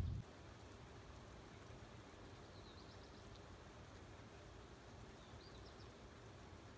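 Faint steady hiss of rain, with two brief groups of high bird chirps, one a few seconds in and one near the end. A low rumble cuts off just after the start.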